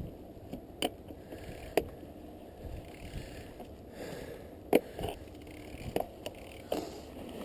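Mountain bike ridden through snow: a steady low rustling noise with scattered sharp clicks and knocks, about seven of them.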